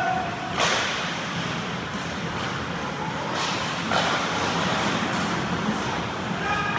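Ice hockey play heard from beside the net: a steady rush of skating and rink noise, broken by sharp knocks of stick and puck about half a second in and about four seconds in.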